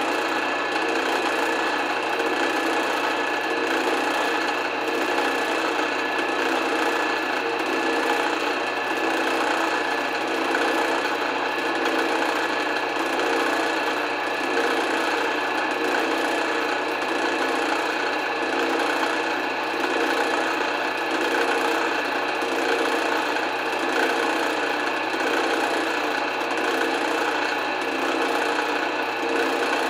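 Drill press motor running steadily, spinning a screw chucked in it as a makeshift lathe while the screw head is turned down smaller.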